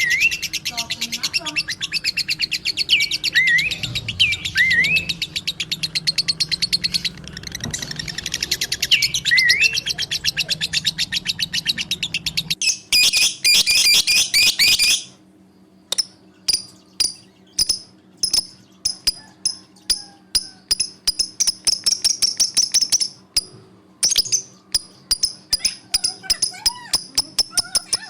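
Caged budgerigars and lovebirds chirping in rapid, continuous chatter, with a few rising whistled calls in the first half. About halfway through the background drops away and sharp chirps repeat several times a second.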